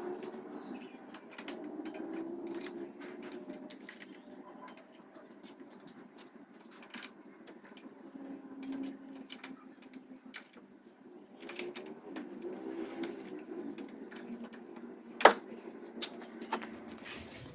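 Scattered small metallic clicks and clinks of tools and small engine parts being handled on a work surface, with one sharp click about fifteen seconds in.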